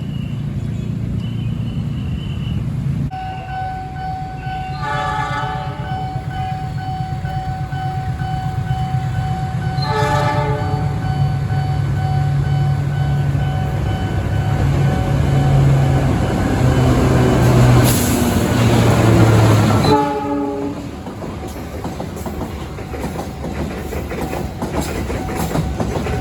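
Container freight train coming through, with its locomotive sounding the horn in short blasts about 5, 10 and 20 seconds in. The low rumble of engine and wheels builds steadily, then drops off sharply near the end.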